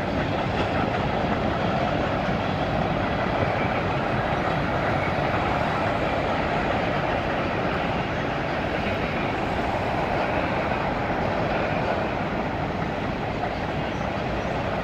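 Union Pacific mixed freight train's covered hoppers and boxcars rolling steadily past, steel wheels running on the rails.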